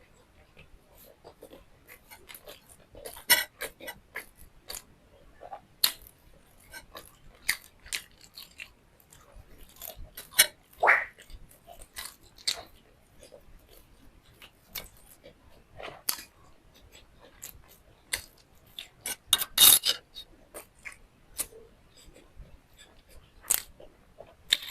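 A person chewing and biting food close to the microphone: irregular wet mouth clicks and smacks with occasional crunches, the loudest about 3, 11 and 20 seconds in.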